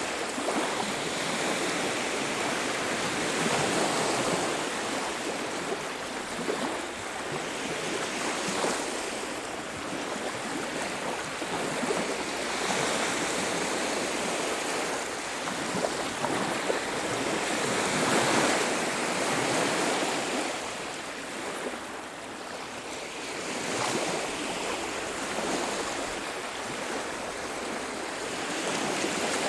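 Ocean waves washing onto a beach, the surf swelling and ebbing every few seconds.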